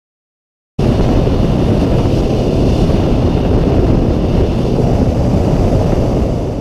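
Motorcycle riding noise: a loud, steady rumble of wind and engine on the camera's microphone. It cuts in abruptly about a second in and fades out near the end.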